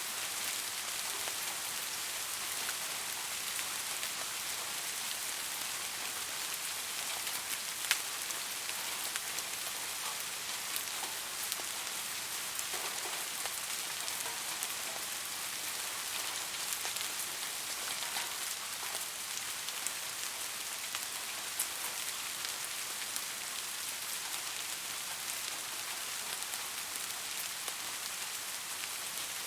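Steady rain falling, an even hiss with scattered individual drops ticking on a surface; one drop stands out about eight seconds in.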